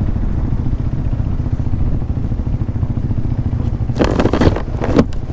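KTM 390 Adventure's single-cylinder engine running as the motorcycle rides a rough road, a steady low rumble mixed with wind on the microphone. About four seconds in comes a loud scraping rustle lasting about a second.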